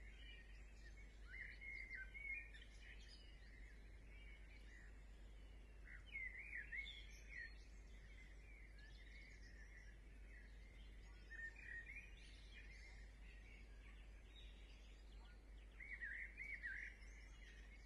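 Faint birds chirping in four short bursts over a steady low hum.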